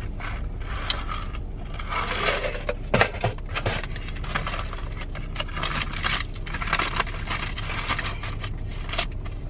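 Eating and handling food and its packaging: scattered clicks, scrapes and rustles over a steady low hum, with a sharper knock about three seconds in.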